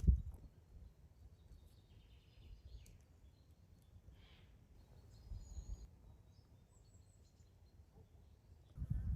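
Quiet woodland ambience with faint, brief bird chirps scattered through it, and a low thump at the very start with a few softer low thuds later.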